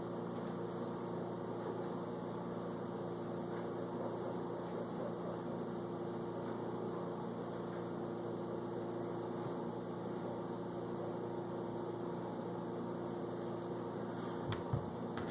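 A steady low hum made of a few fixed tones over a faint noise, with two or three small clicks near the end.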